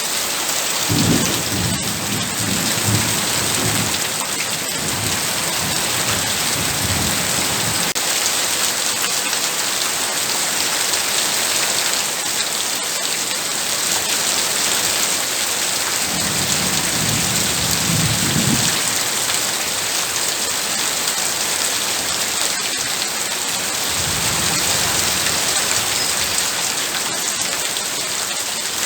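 Heavy rain pouring steadily, with low rolling thunder rumbling in four spells: near the start, a few seconds later, around the middle and again about two-thirds of the way in.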